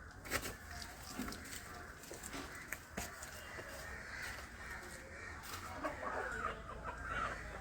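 Faint bird calls, with a few sharp clicks.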